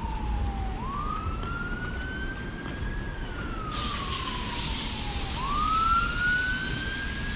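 Emergency vehicle siren in a slow wail, its pitch rising for about two seconds and falling for about two and a half, over a low rumble; a hiss joins about halfway through.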